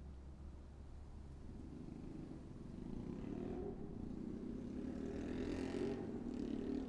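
Street traffic: a motor vehicle passing, its engine hum and tyre hiss growing louder from about three seconds in and peaking near the end.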